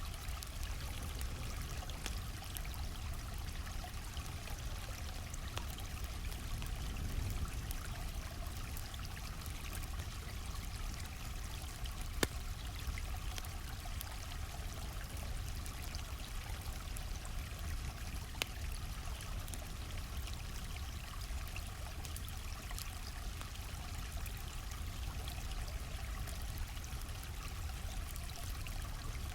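A flowing stream rushing and trickling steadily, with campfire crackles scattered over it and a sharp pop about twelve seconds in.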